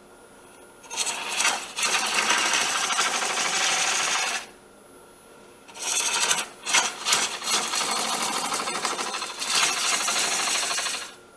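Homemade hollowing tool cutting inside a spinning blank of soft, wet sweet gum on a wood lathe. There are two long bursts of scraping, chattering cutting noise, the second starting with a few stutters, and a faint steady hum in the pause between them. The tool is still grabbing in the soft, wet wood, in the turner's words.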